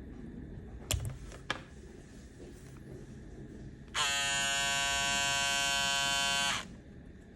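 Braun Series 5 electric shaver: two clicks, then the motor runs with a steady buzz for about two and a half seconds and cuts off.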